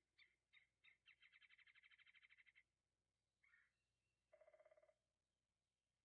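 A faint bird calling: three quick notes lead into a fast, even trill that lasts about a second and a half. Then comes a short single note, and a second, lower trill about four and a half seconds in.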